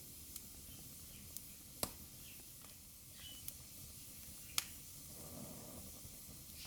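Fireplace fire crackling softly: a faint steady hiss with scattered sharp pops, the two loudest about two and four and a half seconds in, and a brief soft low rush of flame about five seconds in.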